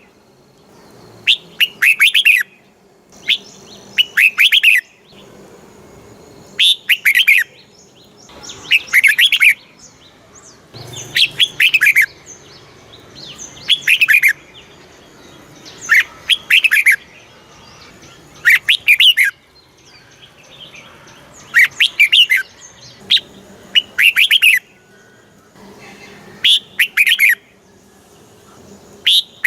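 Red-whiskered bulbul singing: short, bright warbled song phrases about a second long, repeated about every two seconds, about a dozen in all.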